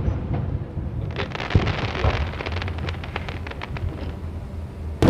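Aerial fireworks: a dense run of crackling from bursting shells for a couple of seconds, with a sharp low thump among it, then a loud boom of a shell bursting right at the end.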